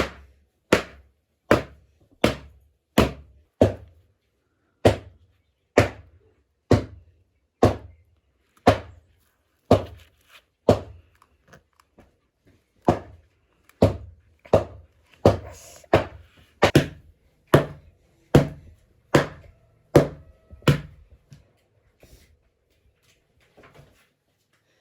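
A steady series of heavy thuds from a hand tool striking, about one every three-quarters of a second, with a couple of short pauses; the blows stop a few seconds before the end.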